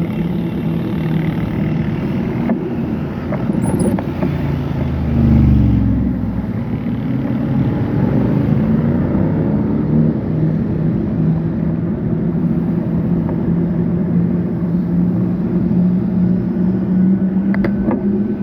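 Road traffic: motor vehicle engines running steadily with road noise. A vehicle passes close about five seconds in, its pitch dropping as it goes by.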